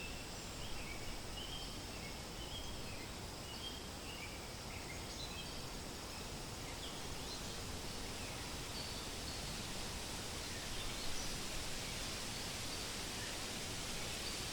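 Wind rustling through forest leaves in a steady hiss, with small songbirds giving short high chirps, many in the first half and fewer later.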